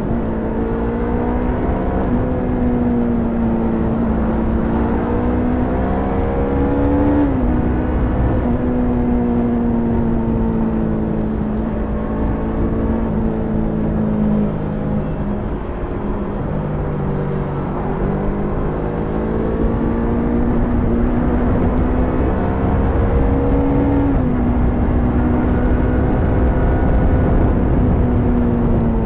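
Stock Yamaha YZF-R3's parallel-twin engine under way, its pitch climbing with the revs and then dropping sharply at upshifts, about seven seconds in and twice more later on, with steadier running in between.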